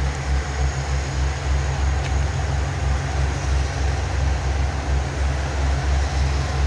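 Train running, with a steady deep rumble that pulses unevenly.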